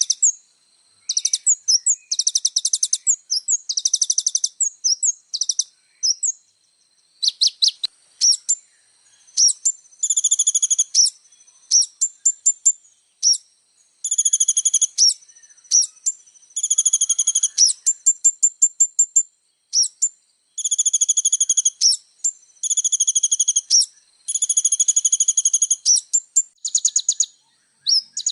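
Kolibri ninja sunbird singing a loud, fast, high-pitched song of rapid trills and sharp chips, phrase after phrase with short pauses between.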